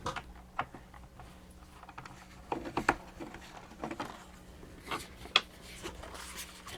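Scattered clicks, taps and short scrapes of screws being worked loose and plastic parts handled on a plastic mechanical animated figure, the sharpest click about five seconds in.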